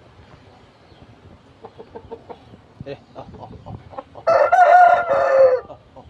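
Rooster crowing once, a single call just over a second long about four seconds in, after a run of soft short clucks.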